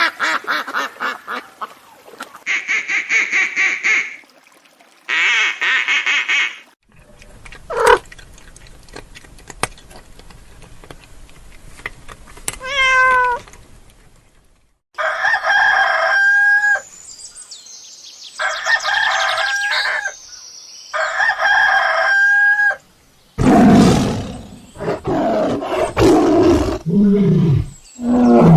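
Farmyard fowl calls in short clips one after another: chickens and a rooster, with three similar drawn-out crows of about two seconds each in the second half. Lower, rougher animal sounds follow near the end.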